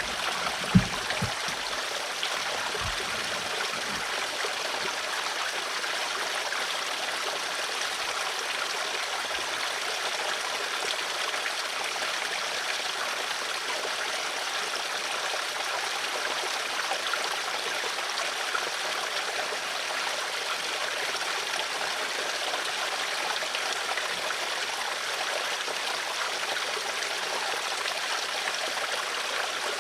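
Flowing water running steadily with an even rush. A few low knocks fall in the first few seconds, the sharpest about a second in.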